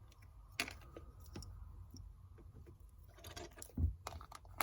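Small plastic LEGO minifigure pieces clicking and clattering as they are handled and sorted, a few scattered clicks with a busier cluster near the end.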